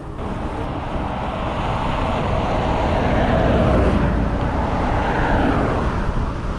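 Wind rushing over the microphone while cycling into a headwind, with a motor vehicle going past on the road, swelling to a peak about four seconds in and then easing.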